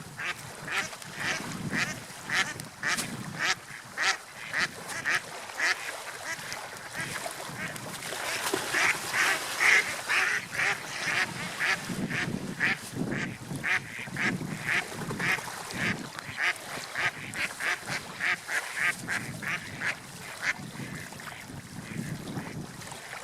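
Gulls calling again and again, short calls a few a second, over a steady rushing noise.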